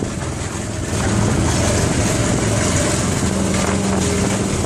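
Small boat's motor running at a steady hum, with a constant rushing hiss over it.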